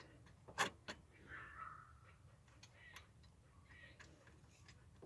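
A few sharp clicks and ticks of metal parts being handled in an engine bay, the loudest about half a second in, otherwise quiet.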